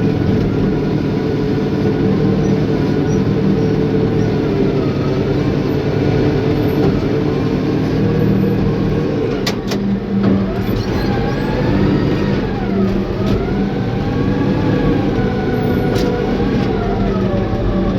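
Caterpillar bulldozer's diesel engine working steadily, its pitch dipping and rising as the load changes, with a few sharp metallic clanks about halfway through and again near the end.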